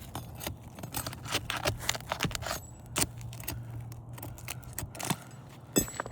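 Metal snake bar working under asphalt roof shingles to get at the nails: a run of irregular sharp clicks and scrapes of metal against shingle and nail. A steady low hum runs underneath for the first few seconds.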